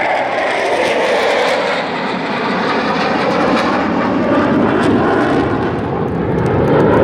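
Airplane flying past, its engine noise loud and continuous, with tones in the noise slowly sweeping down and back up as it moves.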